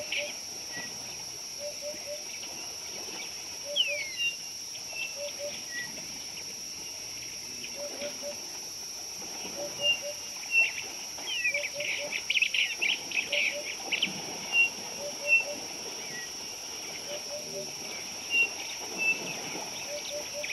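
Wild birds calling: a short low double note repeats about every second and a half, with thin high chirps, a couple of falling whistles and a burst of rapid high chatter about twelve seconds in, over a steady high-pitched hum.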